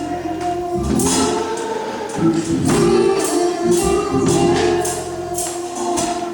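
Gospel music: a choir singing over sustained chords, with a tambourine struck on a steady beat.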